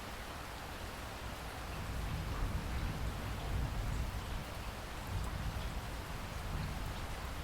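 Steady rain falling, an even hiss of drops, with a low rumble underneath that swells a couple of seconds in.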